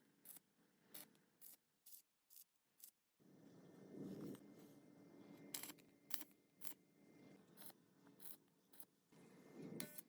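A series of short, sharp snipping clicks, irregularly spaced at roughly one a second, over a faint low hum.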